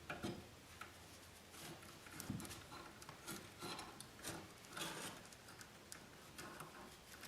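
Faint, intermittent scraping and small clicks of a hand tool stripping the insulation off electrical wire conductors.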